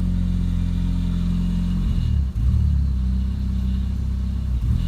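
2000 Chevy Cavalier's 2.2-litre four-cylinder engine running just after start-up, heard from inside the cabin, with a muffler the owner has heard is faulty. The engine note changes about two seconds in, after a brief dip.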